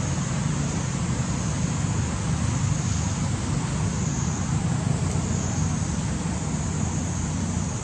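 Steady outdoor noise with a low rumble like wind on the microphone and a constant high-pitched hiss above it.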